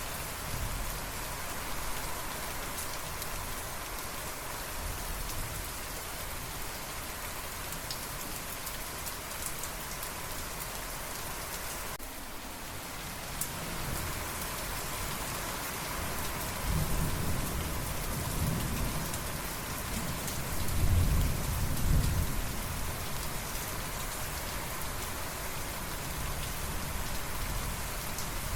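Steady rain falling on a surface, with a roll of thunder rumbling in about two-thirds of the way through and peaking shortly after.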